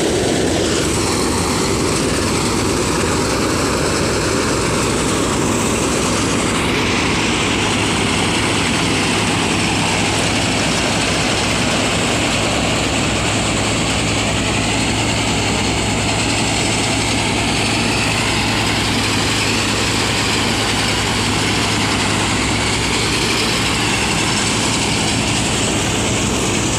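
Kubota mini harvester's engine running steadily at a constant speed, a continuous mechanical drone.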